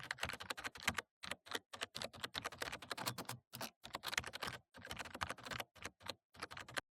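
Rapid, irregular clicking, several short clicks a second, which cuts off abruptly near the end.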